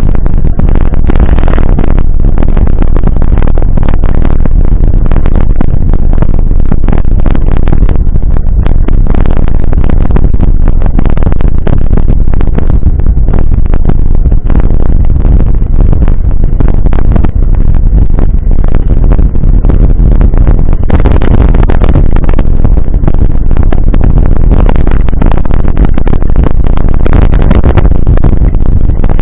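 Heavy wind rumble on the microphone of a camera riding along on a mountain bike, with irregular rattling and clatter from the bike over rough ground, steady and near full loudness.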